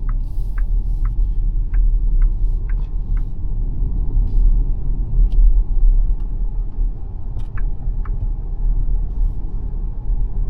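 Xpeng G9 Performance electric SUV on the move: steady low road and tyre rumble with no engine note. Short high ticks, about two a second, run through the first three seconds, and a few scattered ones follow later.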